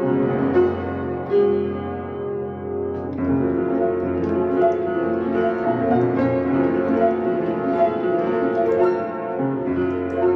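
Solo piano improvising: held chords ringing on, then a new chord struck about three seconds in, followed by a busier flow of notes over sustained harmony.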